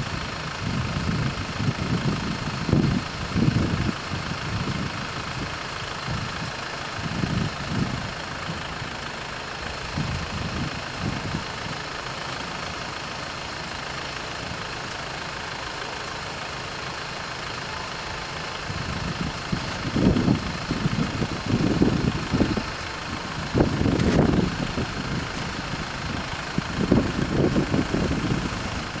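Road traffic at a railway level crossing: vehicle engines running, with uneven low rumbling that swells in the first third and again from about two-thirds of the way in, over a steady higher ringing from the crossing's warning bells.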